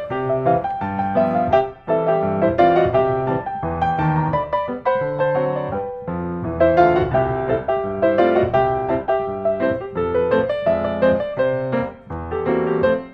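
Background music: a melodic piano piece playing steadily, with brief pauses between phrases.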